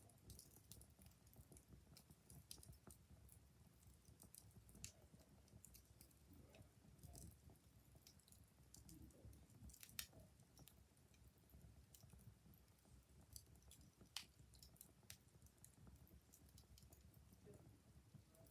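Faint crackling wood fire: irregular small snaps and pops over a low steady rumble, with two louder pops about ten and fourteen seconds in.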